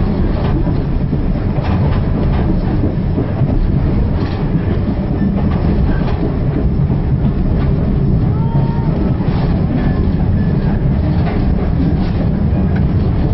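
Railway carriage running along the line, heard from inside the carriage: a steady rumble of wheels on rails, with the clickety-clack of the wheels over rail joints every second or two.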